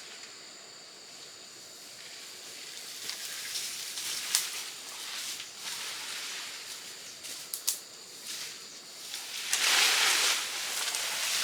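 Rustling and crackling of dry leaves and brush being moved or stepped through, in scattered swishes and snaps with a louder rustle near the end. Steady high insect trilling runs underneath.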